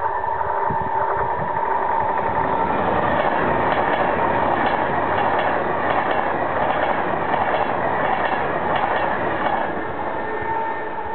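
Class 390 Pendolino electric tilting train passing close at speed: a rush of wheel and rail noise that builds as the train arrives, with a run of clicks as the coaches go by, then dies away near the end.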